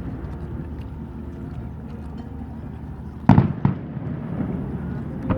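Fireworks shells bursting over a lake: two sharp bangs about half a second apart a little past halfway, over a steady low hum.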